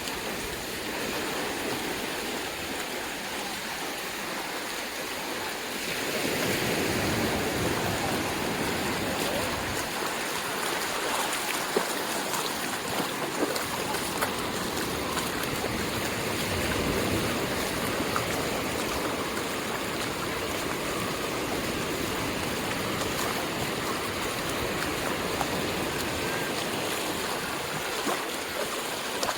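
Ocean surf washing on the beach: a steady rush of waves that swells louder about six seconds in and again midway through.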